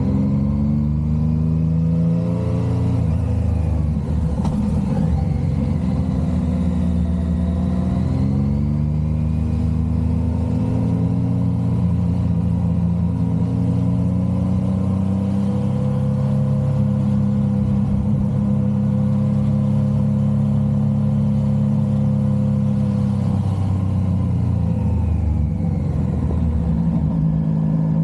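Motorcycle engine heard from the rider's position while under way. The revs climb and drop several times as it accelerates and changes gear, and hold steady through the middle while cruising.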